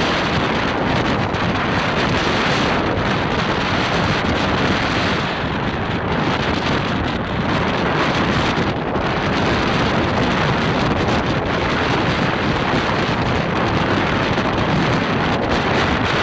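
Wind buffeting the microphone over the steady running noise of a Mumbai suburban electric local train in motion.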